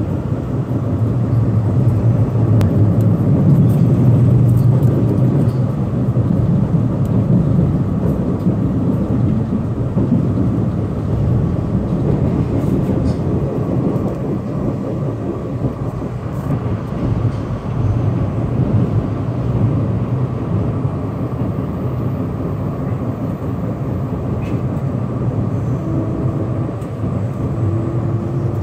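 Steady running rumble of a moving electric train, heard from inside the carriage: wheels on rails and the car's low drone, a little louder a few seconds in.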